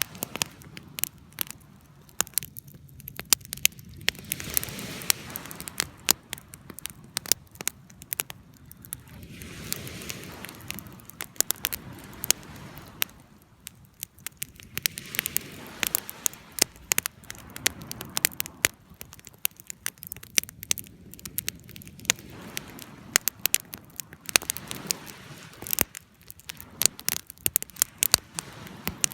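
Wood bonfire crackling, with frequent sharp pops and snaps over a low rush of flame that swells and fades every few seconds.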